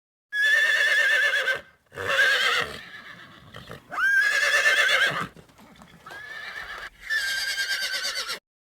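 A horse whinnying four times, each a loud call with a quavering pitch lasting about a second, with quieter sound between the calls.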